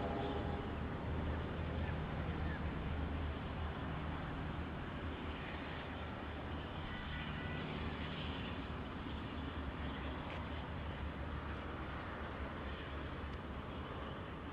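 Train rumbling steadily, slowly fading away.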